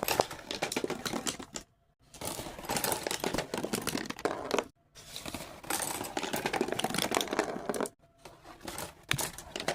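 Several marbles clattering and rolling down a marble-run track, a dense rattle of clicks broken by a few short silent gaps.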